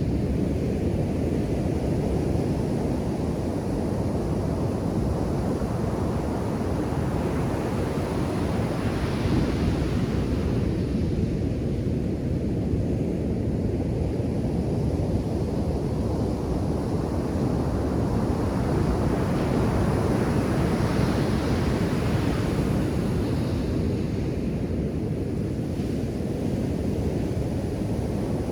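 Ocean surf breaking on a beach, a steady low wash with swells as waves come in, with wind buffeting the microphone.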